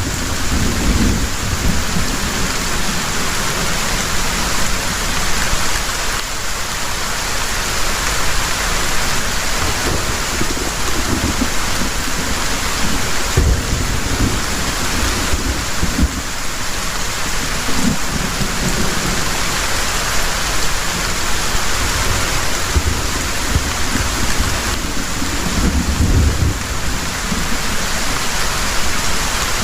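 Heavy rain falling steadily, with deep rumbles of thunder swelling and fading several times.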